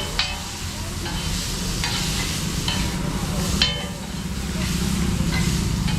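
Chicken roll filling sizzling on a hot street-stall griddle while a metal spatula stirs and scrapes it, with four or five sharp metallic clinks of the spatula striking the pan, the loudest about three and a half seconds in.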